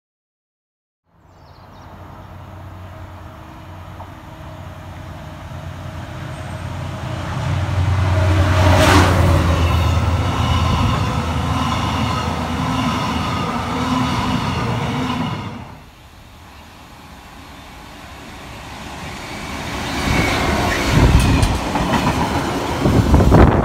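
A passenger train runs past along the platform: a rumble with a steady pitched drone that builds to a peak about nine seconds in and cuts off sharply at about fifteen seconds. Then a rail engineering train with track-laying wagons rolls past, its wheels clattering and knocking loudly near the end.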